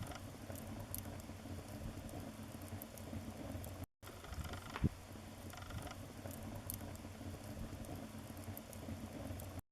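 Wood fire crackling in a fireplace: a steady soft hiss with small scattered crackles and one sharp pop about five seconds in. The sound drops out briefly just before the halfway point and cuts off suddenly at the end.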